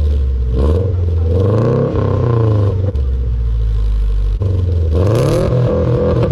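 Honda Civic engine through a newly fitted HKS aftermarket exhaust, revving up and down: the pitch climbs about a second in, falls back, holds, and climbs again near the end.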